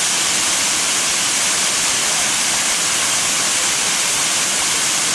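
Steady rush of a waterfall, an even hiss of falling white water.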